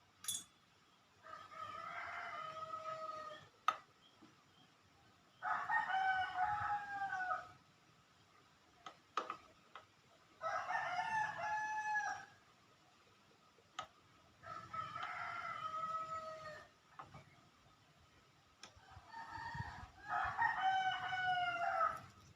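Rooster crowing five times, each crow about two seconds long and spaced four to five seconds apart, with a few faint clicks in between.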